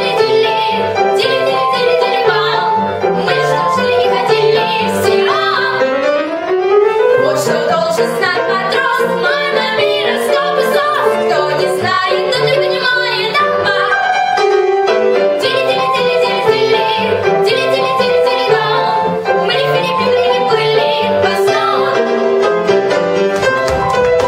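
Female voices singing a comic operetta duet with instrumental accompaniment, with a long rising glide in pitch about six seconds in.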